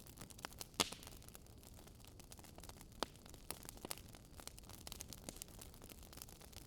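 Wood fire crackling: irregular sharp pops and snaps of burning firewood, the loudest about a second in and again near three seconds, over a faint steady hiss.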